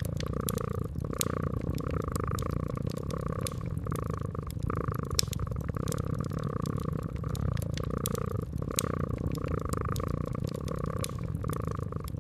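Domestic cat purring steadily, the purr swelling and easing with each breath about every second or so, over the sharp scattered crackles and pops of a wood fire.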